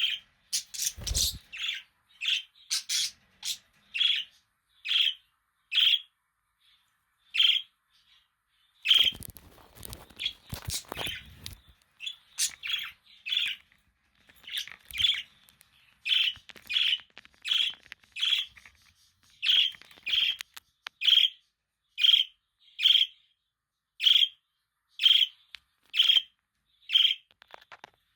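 Budgerigar (parakeet) chirping: a steady run of short, high calls, about one a second. A few seconds of scuffling noise come in under the calls around ten seconds in.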